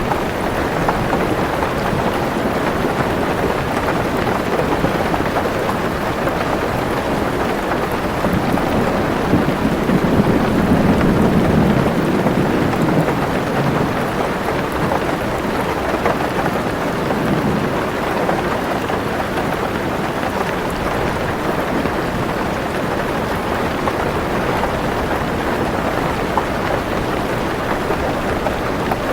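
Heavy rain drumming steadily on a car roof, with a low roll of thunder swelling about a third of the way in and fading a few seconds later.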